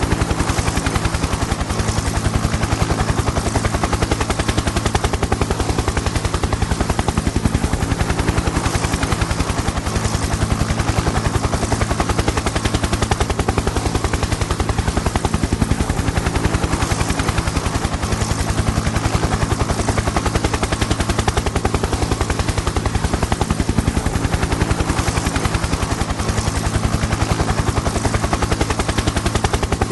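Helicopter in flight: the rotor blades chop in a rapid, even beat over a steady low hum from the engine and rotor.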